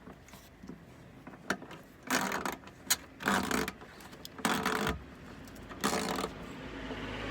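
Ratchet wrench tightening the last bolt of the Mercedes SLK R170's under-engine protection tray: four short bursts of ratcheting about a second apart, with a few sharp clicks between them.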